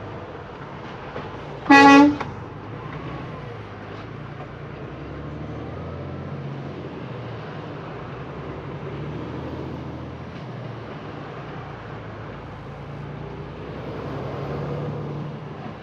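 A vehicle horn honks once, short and loud, about two seconds in, over the steady hum of the truck's engine and road noise.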